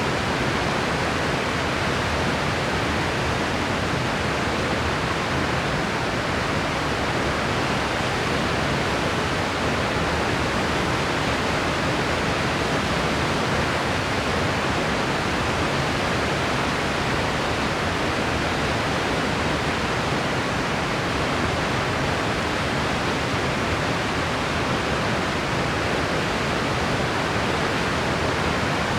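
Steady white noise: an even hiss that holds the same level throughout.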